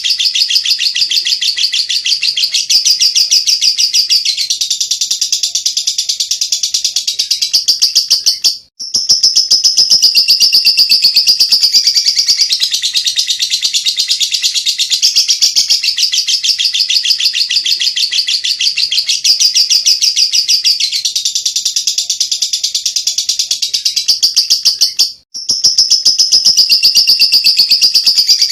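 Lovebird singing ngekek: a long, unbroken, very rapid high-pitched chattering trill. It breaks off briefly twice and picks straight up again.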